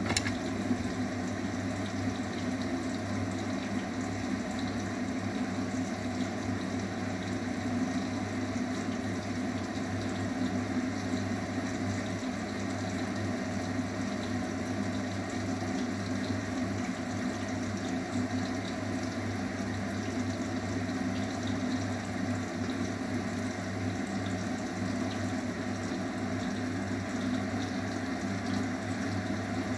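Arçelik 9120M washing machine taking in water: the flow starts suddenly and runs as a steady rush of water with a low hum underneath.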